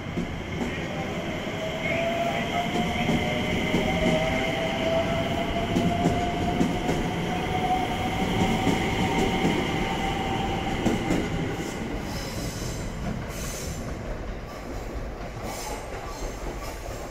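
JR West 227 series electric train running in alongside the platform: a rumble of wheels and motors with a whine that climbs slowly for about ten seconds before fading, over a high steady squeal. Scattered clicks come near the end.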